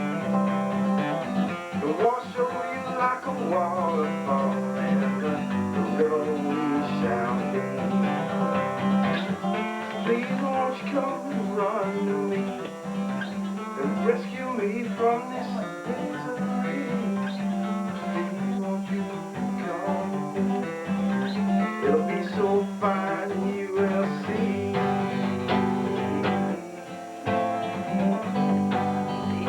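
Guitar played solo, a busy run of quick plucked notes, over a steady low hum.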